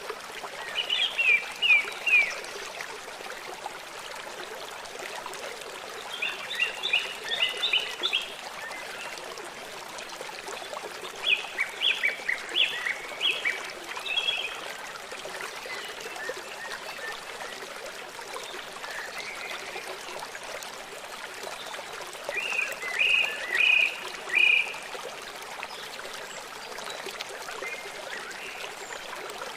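Four short bursts of rapid chirping calls, each a quick run of three to six repeated notes, over a steady wash of running water.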